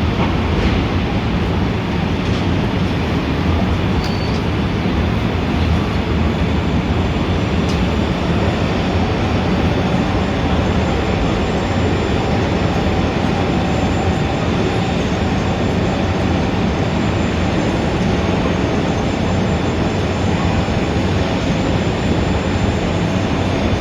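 Dense, steady city traffic noise: a continuous low rumble without breaks, with a few faint steady tones joining in about a third of the way through.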